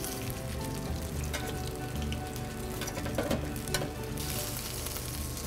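Polenta triangles sizzling as they fry in a hot cast-iron skillet, with a few sharp clicks of metal tongs against the pan; the hiss grows brighter about four seconds in. Background music plays underneath.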